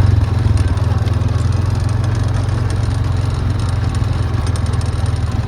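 Farm vehicle engine running steadily with a low, even drone.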